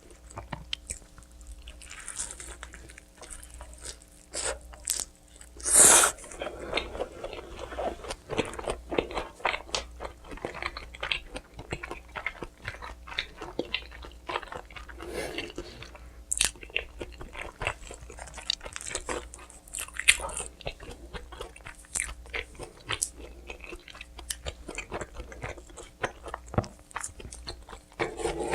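Close-up eating sounds: someone biting into and chewing pizza, with crisp crunches of the crust and wet chewing, one louder bite about six seconds in.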